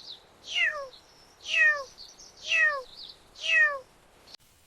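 Domestic cat meowing: four short meows about one a second, each falling in pitch.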